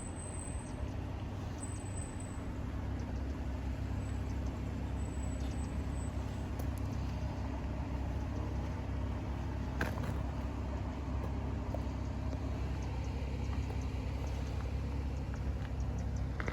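A vehicle engine running steadily at low revs, a low hum that grows slightly louder as it goes on.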